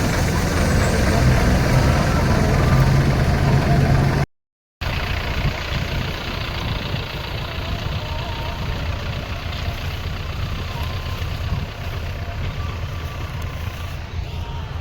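Heavy diesel farm machinery running steadily. The sound drops out completely for about half a second around four seconds in, then carries on slightly quieter.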